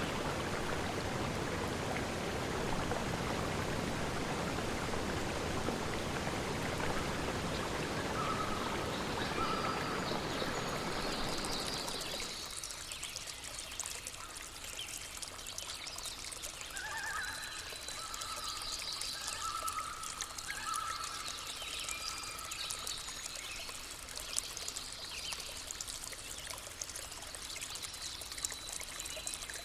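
Stream water running in a full, steady rush, which cuts off abruptly a little under halfway through. A quieter forest ambience follows, with trickling water and birds calling in short repeated notes.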